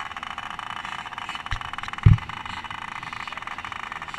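Small motocross bike engine held at a steady low throttle while warming up. Two low thumps about one and a half and two seconds in, the second the loudest.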